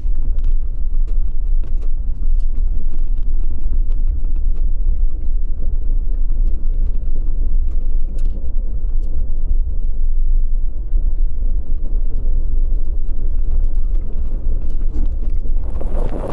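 Steady low rumble of a vehicle on the move, with scattered light knocks. Near the end it cuts to a louder hissing noise.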